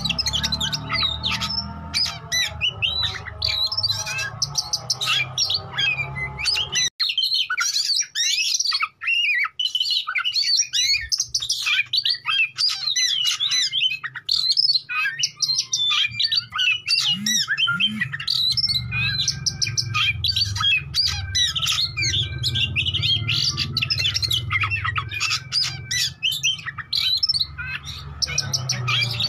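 Oriental magpie-robin singing continuously: a fast, varied stream of whistles, chirps and harsh notes. A low background rumble cuts out suddenly about seven seconds in and comes back past the middle.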